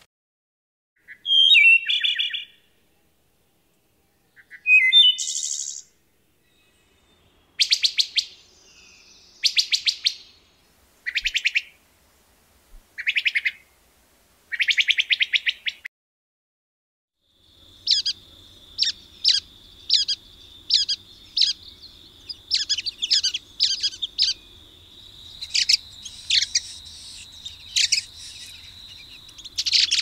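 Recorded bird calls. Short groups of high chirps and buzzy, nasal notes are separated by silent gaps. About halfway through, a new recording with background hiss begins, full of quick, repeated sharp notes over a steady high tone.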